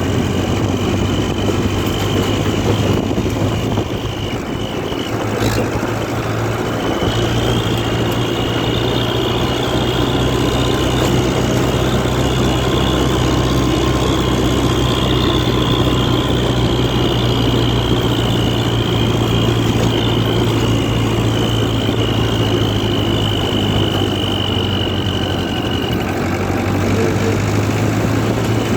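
International Harvester 444 tractor engine running steadily, with a thin high whine over it that stops near the end. The level dips briefly about four seconds in.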